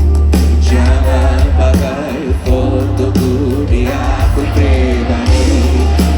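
Loud live band music with a heavy, steady bass and singing over it.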